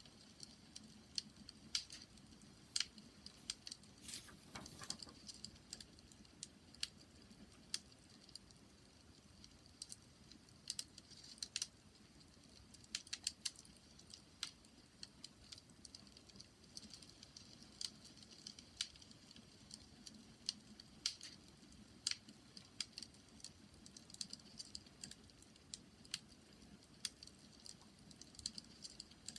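Bonfire crackling quietly: irregular sharp pops and snaps over a soft, steady low rumble.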